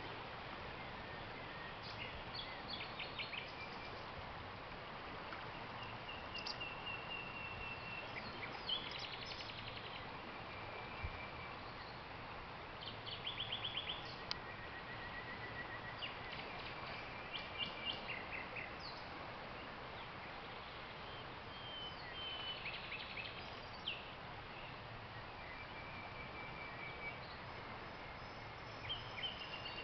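Nightingale song: separate phrases of rapid trills, quick repeated notes and held whistles, with short pauses between them, over a steady rush of river water.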